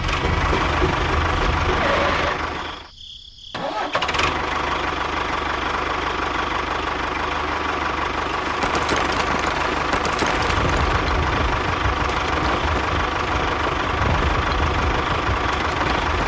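Small motor of a miniature tractor running steadily, cutting out for about a second near the start before running on.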